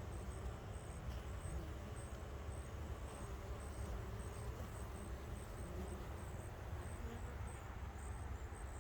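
Honeybees buzzing faintly as they fly in and out of a hive entrance, heard as soft wavering hums over a steady low rumble.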